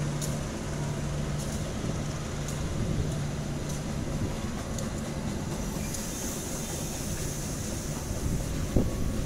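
Passenger train running along the track with a steady rumble and a low hum that fades out about three seconds in. A few faint clicks, and a single knock near the end.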